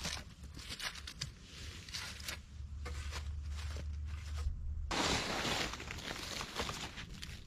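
Rustling and crunching of forest materials being handled, with scattered light ticks and crackles. About five seconds in comes a sudden, louder rustle that lasts about two seconds.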